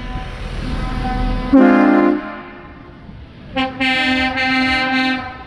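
Vehicle horns honking: a short blast about a second and a half in, then a longer blast of nearly two seconds near the end, over a low traffic rumble.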